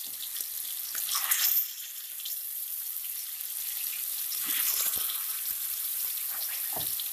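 Marinated, batter-coated chicken pieces sizzling in hot oil in a metal kadai as more pieces are dropped in. It is a steady hiss that flares briefly louder about a second in.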